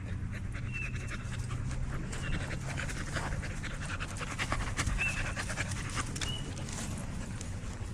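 A dog panting steadily close by.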